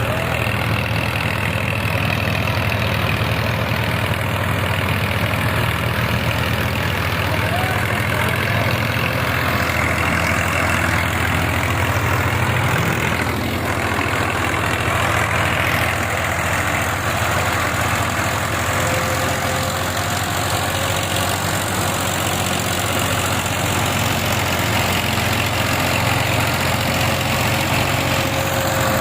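Belarus 510 tractor's four-cylinder diesel engine running steadily.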